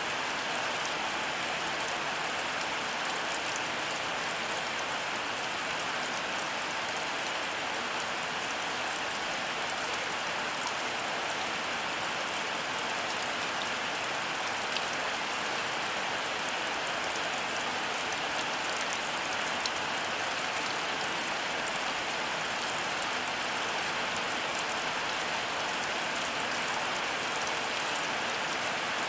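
Heavy rain falling steadily as an even hiss, with a few faint drop ticks here and there and no thunder.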